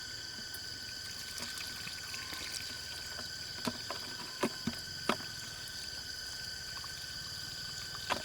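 Steady high drone of insects, with a handful of short sharp drips or splashes of water in a flooded hole, four of them between three and five seconds in and one near the end.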